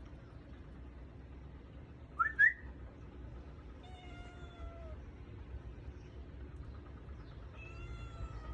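A person whistles two short rising notes to call stray cats, and a cat answers with a meow about a second and a half later and again near the end.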